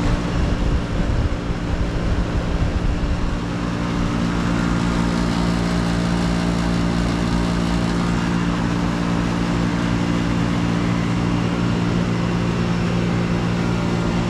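2009 Arcoaire 7.5-ton commercial air-conditioning condensing unit, with a Copeland scroll compressor and condenser fan, running just after start-up. It gives a steady hum of several low tones. The sound is uneven and rumbling for the first few seconds, then settles to an even run.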